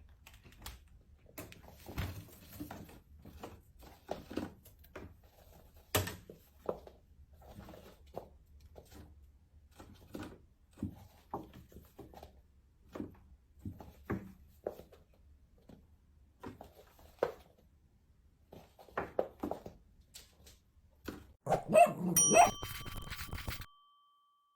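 Pet chinchilla giving short barking calls over and over, a call every half second to a second. Near the end there is a louder clatter with a brief ringing tone.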